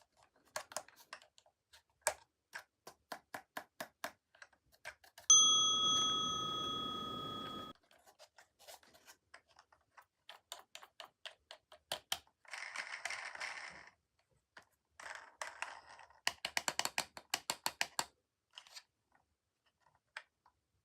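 Small plastic toys being handled and unboxed: a series of light clicks and taps, two brief rustles of packaging, and a quick flurry of rattling clicks near the end. About five seconds in, a single bell-like ding rings out and fades over about two seconds.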